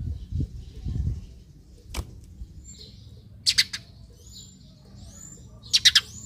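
Eurasian tree sparrow chirping: a quick run of sharp chirps about three and a half seconds in and another near the end, with fainter short calls between. A low rumble sits under the first second, and there is a single sharp click at about two seconds.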